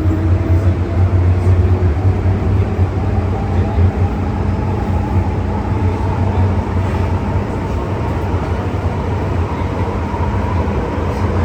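MTR M-Train metro car running in a tunnel: a steady heavy rumble from the wheels and running gear, with the electric traction motors' whine rising in pitch over the first few seconds as the train gathers speed, then holding steady.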